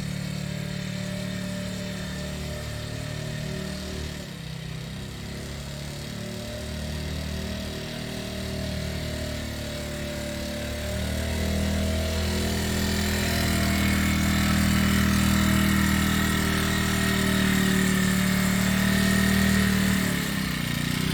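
Motorcycle engine running at low revs. It dips briefly a few seconds in, then picks up and runs steadier and louder through the second half.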